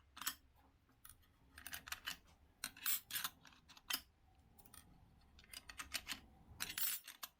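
Motorcycle clutch plates, friction discs and smooth steel plates in turn, being set one by one into a Yamaha YZ125 clutch: a run of short metallic clicks and clinks in several clusters.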